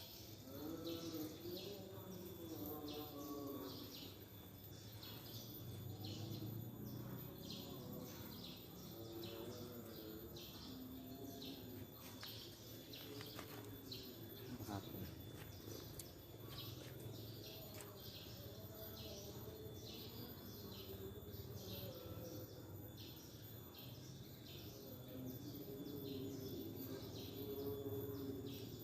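Outdoor garden ambience: a high chirp repeats about twice a second over a steady high insect-like hum, with faint voices in the background.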